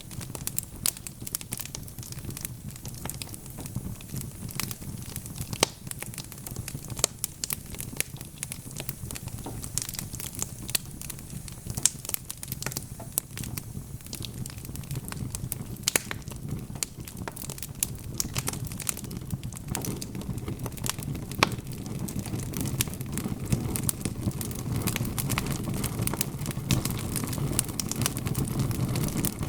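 Wood fire crackling, with many irregular sharp pops and snaps over a steady low rumble of burning that grows louder in the last third.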